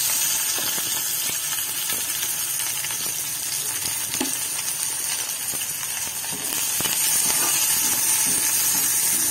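Chopped onions and green chillies sizzling in hot oil in an iron kadai, with a steel spatula scraping and stirring them during the last couple of seconds.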